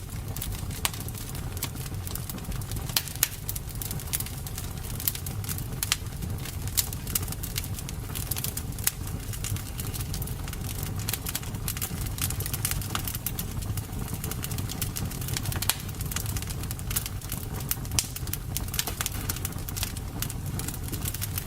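Campfire crackling: irregular sharp pops and snaps over a steady low rumble of burning flames.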